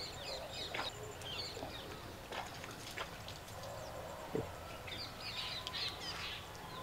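Small birds chirping now and then, faint, with a few soft knocks.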